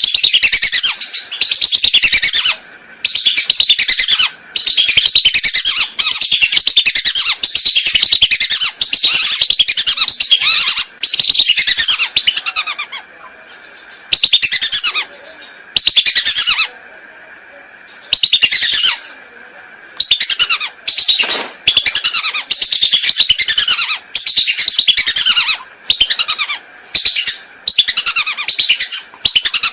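Whistling ducks calling: a loud chorus of quick, high whistles, each sliding downward, in bursts of a second or two with short gaps between. It is a lure recording of the kind hunters play to draw the ducks in.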